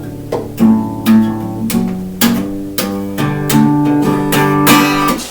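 Acoustic guitar strummed in a steady rhythm, its chords ringing between the strokes, until the playing stops at the very end.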